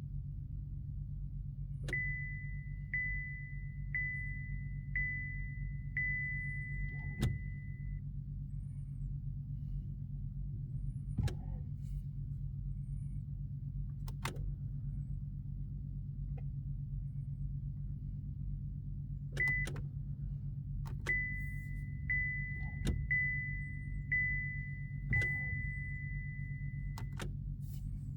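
Chevrolet Malibu's warning chime: a single-pitched beep repeating about once a second, in two runs of about six beeps, over a steady low hum, with sharp clicks here and there, as the car fails to start.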